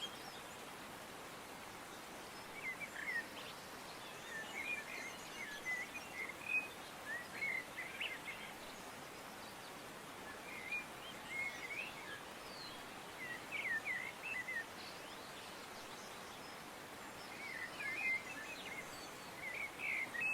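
Small birds chirping and twittering in short bursts every few seconds over a steady background hiss.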